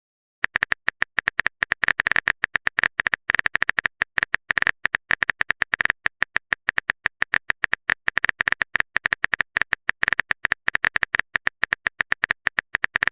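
Typing sound effect: a fast, uneven run of short, bright clicks like keystrokes, starting about half a second in and going on without a break.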